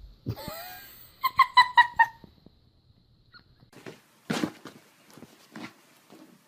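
Squeaky plush toy squeaked by a small dog: one falling squeak, then about five quick squeaks in a row at the same high pitch. After that come a few soft scuffs.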